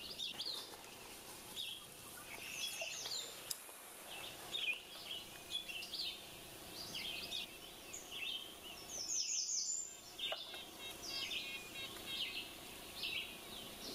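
Several small birds chirping and singing in quick short phrases, with a bright run of falling notes about nine seconds in.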